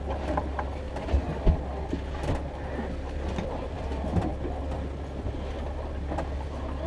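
A boat engine running steadily at trolling speed, a low drone, with a few sharp knocks on the boat near the start and a little later.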